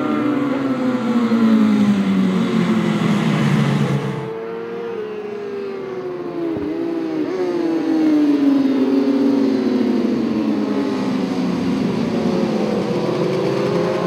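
Several superbike racing motorcycles pass at speed, their overlapping engine notes falling in pitch as they go by. About four seconds in the sound changes suddenly, and another group of bikes passes with falling notes, with one engine rising again near the end.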